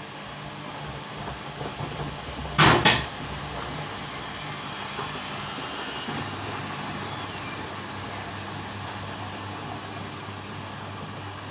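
LG washing machine running, with a steady motor hum and water churning. About two and a half seconds in there are two sharp knocks in quick succession. The hum shifts slightly about six seconds in.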